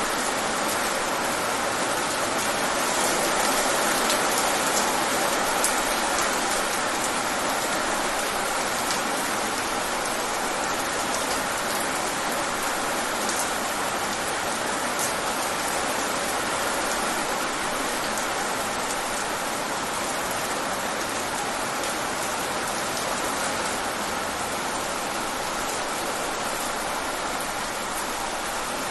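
Steady rain falling on a surface, with individual drops ticking through the hiss.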